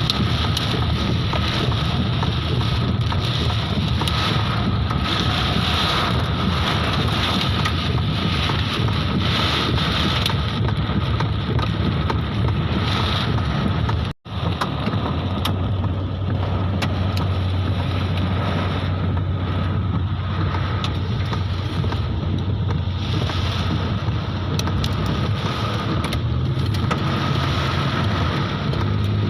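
Hailstorm: heavy rain and hailstones pelting down as a steady rush of noise with scattered sharp ticks, and wind buffeting the microphone. The sound cuts out for an instant about halfway through.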